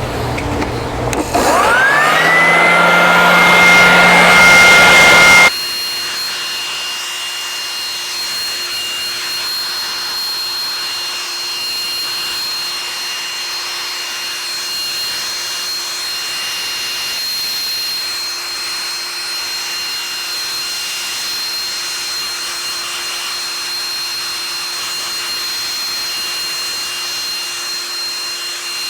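An electric motor-driven machine, like a blower or vacuum, spins up about a second in to a loud, high, steady whine. At about five and a half seconds it cuts abruptly to a quieter, steady high whine over a low hum, which holds to the end.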